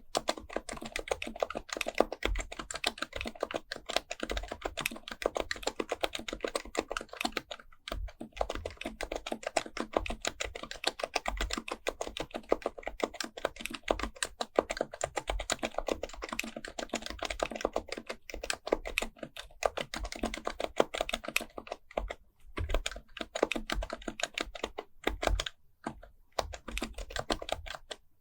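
HHKB Pro Type-S keyboard with its dampened Topre switches being typed on continuously: rapid, dense keystrokes with a few brief pauses, one about a quarter of the way in and several more toward the end.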